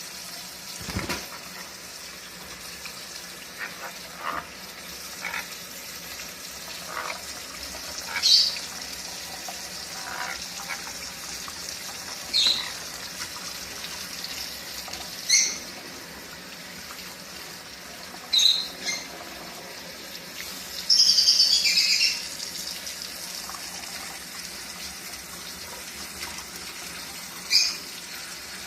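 A pet parrot giving short, sharp high chirps every few seconds, with one longer, buzzier call lasting about a second, over a steady hiss.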